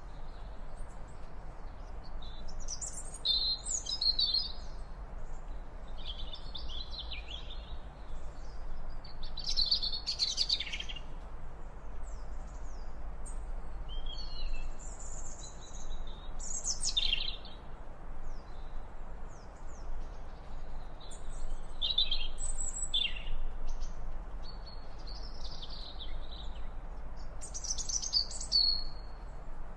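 Birds chirping and singing outdoors: many short, high calls and brief phrases at irregular intervals, over a steady low rumble.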